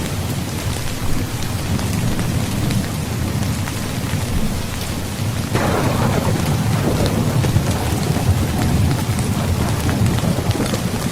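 Steady heavy rain with a low rumble of thunder. About halfway through a fresh thunderclap breaks in suddenly and rumbles on for several seconds before fading back into the rain.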